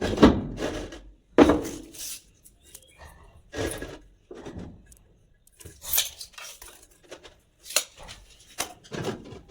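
Irregular knocks and clatter, about six in all, as formwork materials for a concrete kitchen-counter slab are handled and set in place. The loudest come at the start and about a second and a half in.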